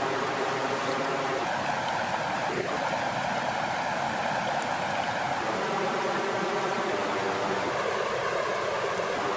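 Flowing water, a steady, even rush with no let-up, and a single faint click about two and a half seconds in.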